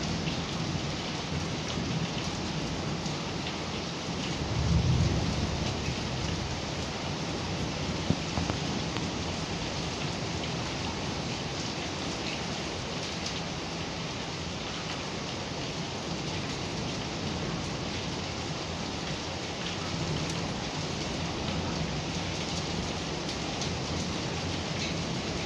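Heavy rain falling steadily, with a short low rumble of thunder about five seconds in.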